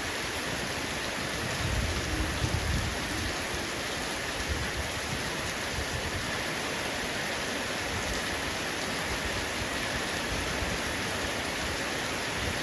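Heavy rain falling steadily on a roof: an even, dense hiss of raindrops, with a low rumble about two seconds in.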